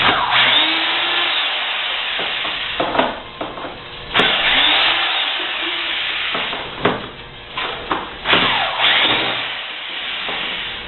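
Handheld power drill run in three bursts, its motor spinning up and winding down each time, with sharp clicks and knocks between the bursts.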